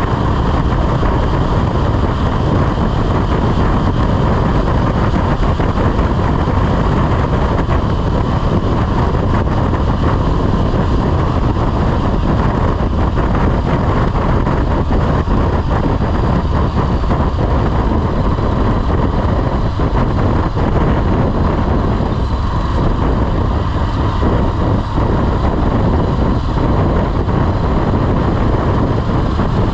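Motorcycle riding along at a steady pace: the engine running under wind rushing over the microphone.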